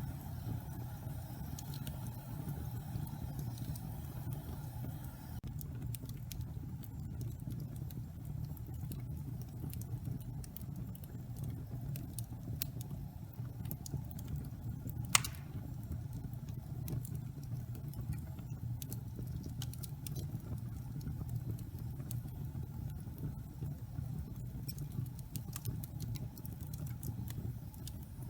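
Wood fire burning in a fireplace: a steady low rumble of flame with scattered small crackles from the logs, and one sharp loud pop about halfway through.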